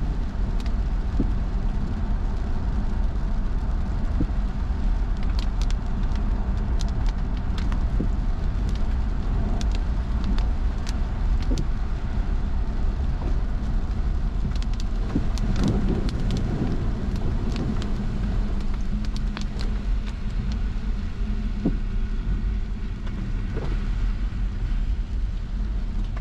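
Car driving on a wet road, heard from inside: a steady low rumble of tyres and engine with a hiss of road spray and scattered sharp ticks.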